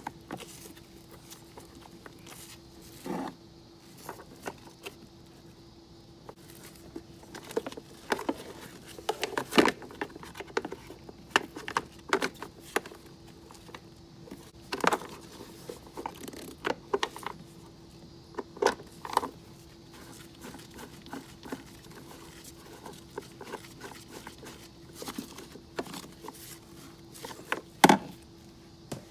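Scattered metal clicks, taps and clatter of hands working with tools and parts, irregular and unhurried, with a few louder knocks, over a steady faint hum.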